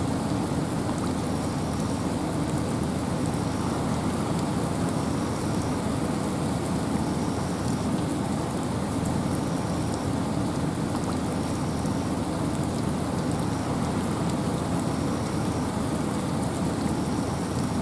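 Steady rain falling in a forest with wind, an even rushing hiss with a deep low rumble.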